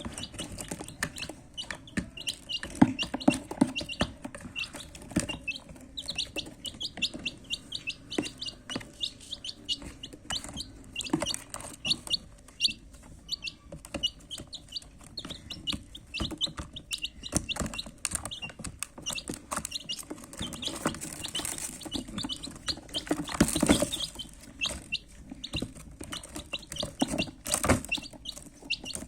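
Baby chicks peeping continuously, many short high chirps a second, with scattered knocks and taps among them.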